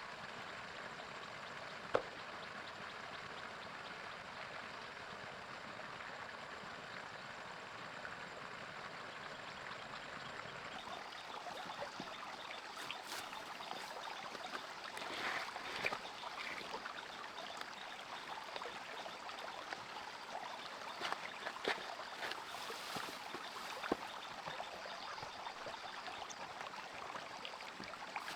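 Water running steadily, like a small stream or trickle. A sharp click comes about two seconds in, and scattered short clicks and knocks come in the second half.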